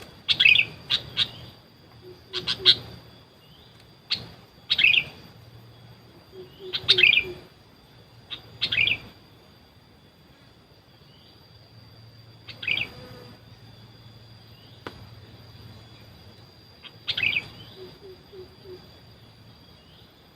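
Sooty-headed bulbul (kutilang) giving short, loud chirping call phrases, about seven of them a few seconds apart, with a long pause in the middle. A faint steady high-pitched whine runs underneath.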